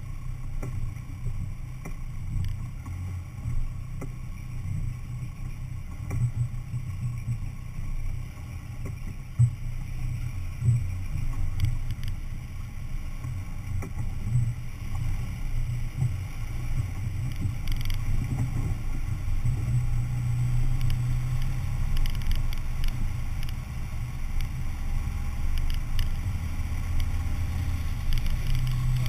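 Off-road 4x4 driving with its engine running as a steady low rumble, with a few sharp knocks about a third of the way in; the rumble grows a little louder past the middle.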